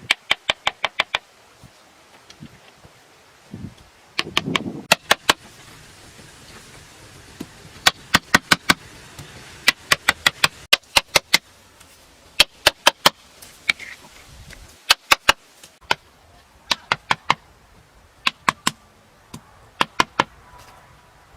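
Rapid runs of sharp taps or knocks, about four to eight strikes in quick succession, repeated every second or two throughout.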